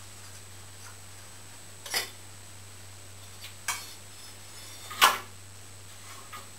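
Hard parts and tools being handled during a ceiling fan repair: a few short, sharp clicks and knocks, the loudest about five seconds in, over a steady low hum.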